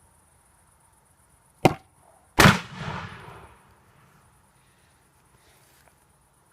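A sharp strike about a second and a half in, then a loud bang from an old Volvo V70 side airbag's pyrotechnic charge going off, followed by a rushing hiss that fades over about a second as the bag blows out.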